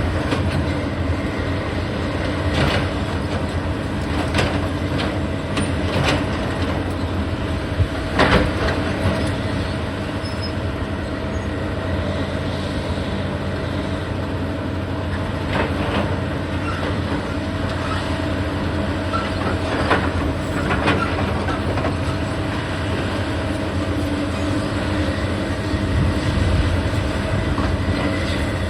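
Heavy demolition machinery's engine running steadily, with scattered knocks and cracks of breaking concrete and debris; the loudest knock comes about eight seconds in.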